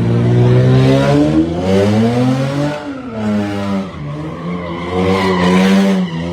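Car engine revving hard, its pitch climbing, dropping about three seconds in, then climbing again, with tyres screeching near the end as in a burnout or drift.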